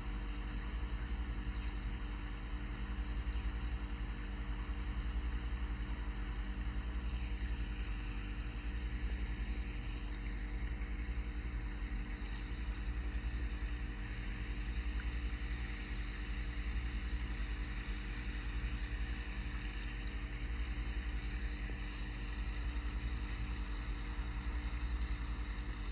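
A steady, unchanging low drone with a constant hum of several fixed tones, like a motor running.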